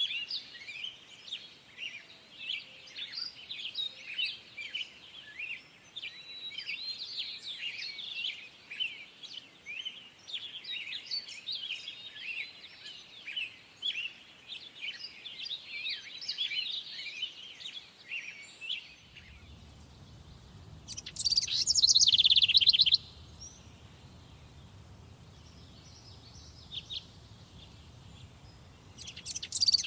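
Songbirds singing, many overlapping chirps and trills at once. About two-thirds of the way through the chorus gives way to a low steady rumble, over which a single nearer bird sings a loud phrase of about two seconds, twice, the second near the end.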